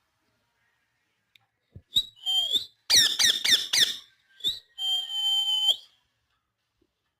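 Pet parrot calling and whistling: a few short shrill calls, then a quick run of falling chirps, then one held whistle about a second long.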